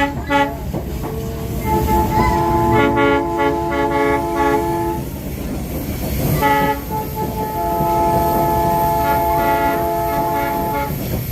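Locomotive air horns sounding a chord of several pitches in a series of blasts: short toots at the start, a long blast about two seconds in with one part pulsing, a short toot past the middle, then another long blast. A steady low train rumble runs beneath.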